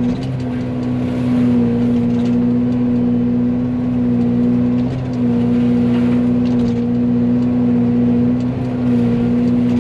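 Excavator's diesel engine and Fecon FMX36 forestry mulcher head running at speed together: a loud, steady hum with a strong constant tone. It dips slightly and briefly about three times as the head works into the brush.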